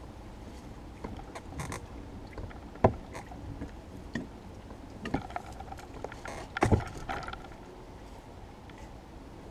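Small rowing dinghy being worked through a tight gap in overgrowth: oar and hull knocking and scraping against branches, with foliage brushing past. There is one sharp knock about three seconds in and a cluster of knocks near seven seconds.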